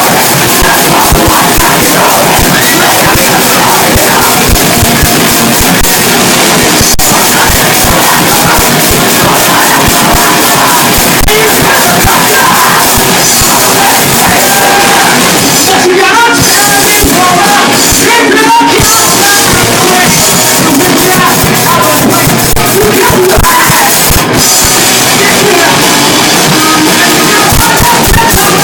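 Rock band playing live: loud, dense guitars and drums with yelled vocals, recorded close to full volume.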